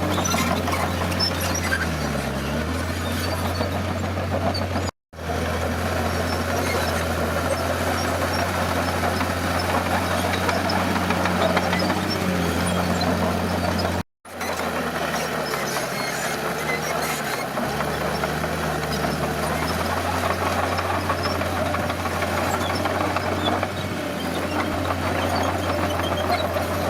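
Bulldozer's diesel engine running under load, its pitch dipping and recovering a few times as it works. The sound cuts out completely for an instant twice, about five and fourteen seconds in.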